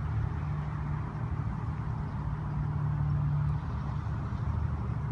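A motor vehicle engine running steadily, a continuous low hum.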